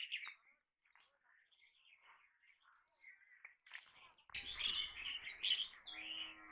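Small birds chirping and twittering in short repeated calls. About four seconds in, a louder rustling noise with a low rumble joins them.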